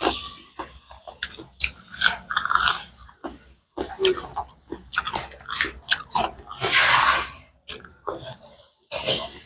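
Close-miked chewing and biting on a mouthful of rice and pork curry: irregular wet mouth clicks and crunches, with a bite into a piece of pork near the end.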